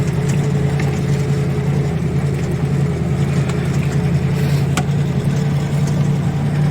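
ZIL-130 truck's V8 petrol engine running steadily under way with a load of coal, a low even drone with no change in revs. A single sharp click about five seconds in.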